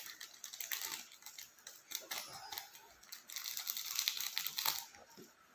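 Close-miked eating and food-handling sounds: a run of small clicks, crackles and rustles, busiest just before the end.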